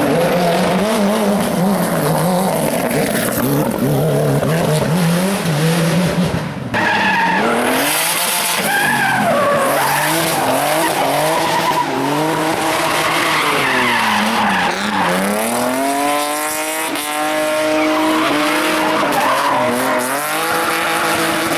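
Hill-climb race car engines revving hard, the pitch climbing and dropping again and again as the driver shifts and lifts, with tyres squealing. The sound changes abruptly about seven seconds in.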